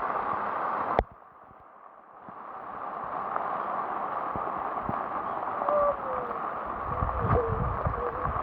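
Steady rain, heard as an even hiss. About a second in there is a sharp click, and the hiss briefly drops away before building back. Near the middle and again near the end come short wavering calls and a few low thumps.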